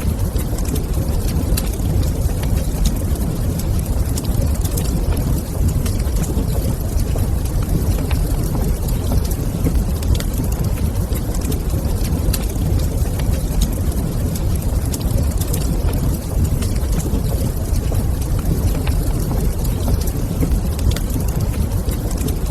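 Wood fire crackling in a fireplace: frequent small pops and snaps over a steady low rumble.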